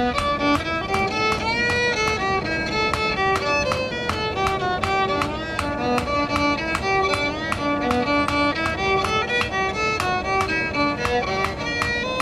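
Fiddle tune played over steady hammer blows on an anvil, about three strikes a second.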